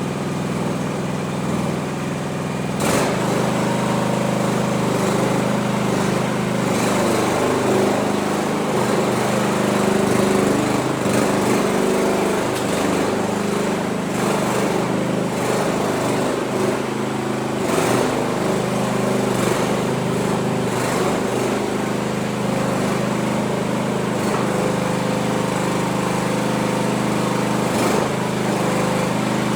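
New Future FT323W mini skid steer's small engine running steadily, its note shifting a little now and then as the machine is worked, with a few sharp clicks along the way.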